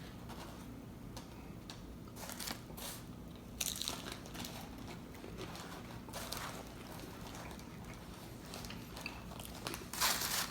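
Biting into and chewing crunchy hard-shell tacos (Doritos Locos taco shells), with irregular crisp crunches and a louder crunch about three and a half seconds in and again near the end.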